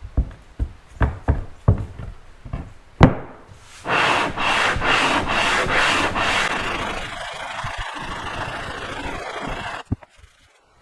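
Aluminium motorcycle cylinder head being resurfaced by hand: a few knocks as it is handled, then rubbing strokes that rasp in a pulsing rhythm for a couple of seconds and run on more steadily before stopping abruptly.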